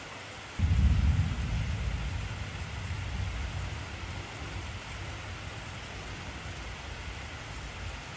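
Steady heavy rain, with a deep roll of thunder that breaks in suddenly about half a second in and rumbles away slowly over the following seconds.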